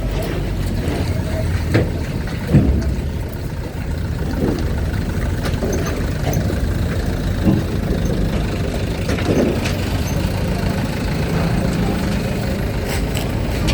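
Truck and car engines running as vehicles drive onto a ferry, a steady low rumble. Several short thumps stand out, the loudest about two and a half seconds in.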